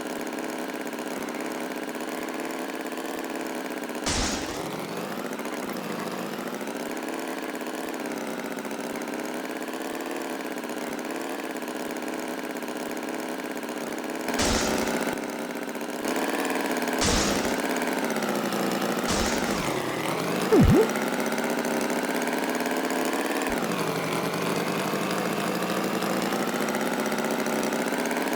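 A steady engine-like drone whose pitch wavers slowly, broken by a few short sharp knocks, the last of them together with a brief rising and falling tone.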